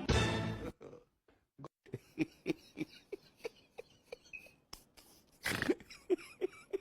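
A loud short vocal outburst, then a string of short voiced sounds a few tenths of a second apart, a few sharp knocks, and another brief vocal burst near the end.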